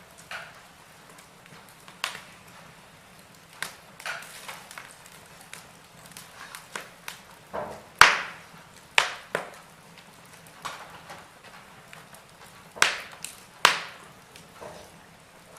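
Wood fire in a fireplace crackling, with irregular sharp pops over a low hiss; the loudest pop comes about halfway through, with a few more strong ones after it.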